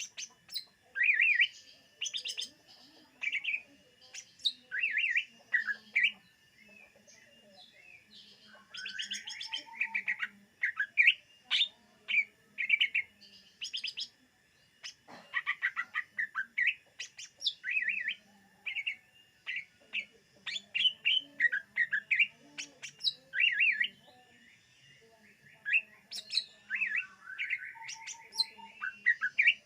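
Cucak ijo (green leafbird) singing a varied song of rapid, high whistled and chattering phrases, in bursts separated by short pauses.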